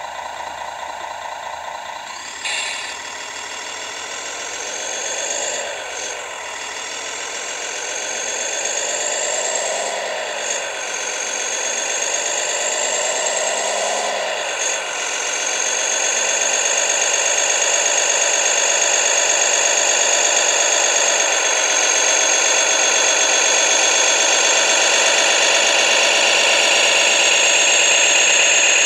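Radio-controlled Tamiya Scania 6x6 truck running, its motor and drivetrain sound rising and falling in pitch with the throttle several times. From about sixteen seconds it is held steady and louder. There is a short click about two and a half seconds in.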